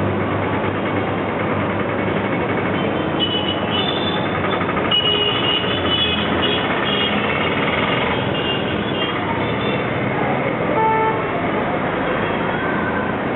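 Heavy street traffic: a steady din of passing vehicles, with brief high-pitched tones over it from about three to nine seconds in.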